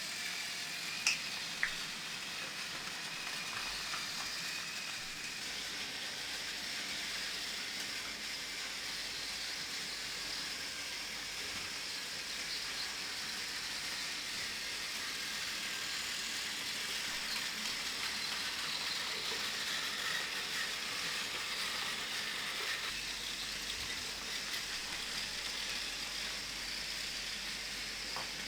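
Battery-powered Plarail toy trains running on plastic track: a steady high whirring hiss, with a couple of small clicks about a second in.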